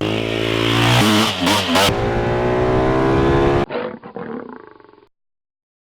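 Car engine running loud at high revs with a rush of noise over it. Its pitch dips and wobbles briefly about a second and a half in, then holds steady until it cuts off abruptly. A quieter stretch follows and fades out.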